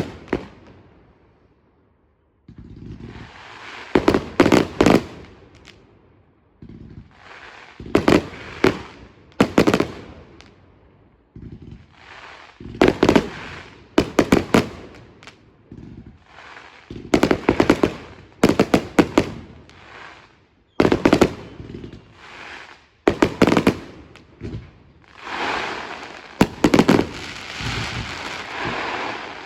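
Fireworks display: aerial shells bursting in quick clusters of sharp bangs every second or two, with fizzing and crackling between them, and a denser crackle near the end.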